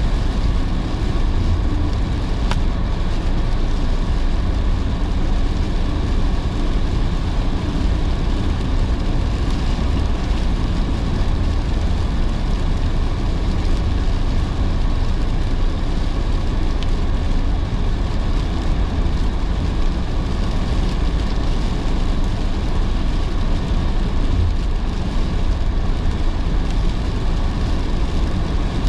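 Steady noise of a car driving in heavy rain: tyres hissing on the wet road and rain on the car over a low, even road rumble.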